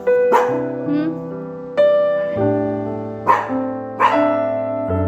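Background piano music, single notes and chords ringing and fading one after another, with three short sharp sounds over it.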